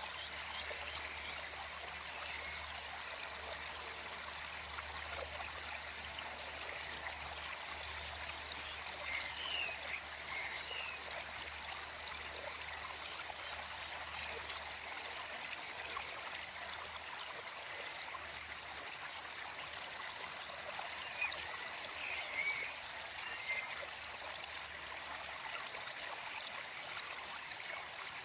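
Small forest stream flowing and babbling steadily, with a few brief bird chirps now and then above the water.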